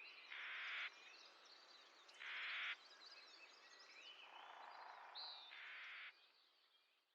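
Birds calling over a light background hiss: many small chirps, with three loud, harsh calls about two to three seconds apart. The sound fades out near the end.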